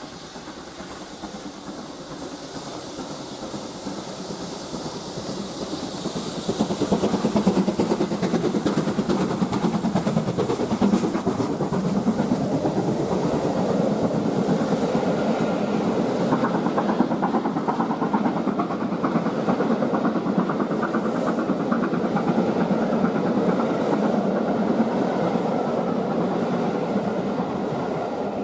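Steam-hauled train behind BR Standard Class 7 Pacific 70013 "Oliver Cromwell" running by on the rails. It grows louder over the first six seconds as it approaches, then passes at a steady level for the rest of the time.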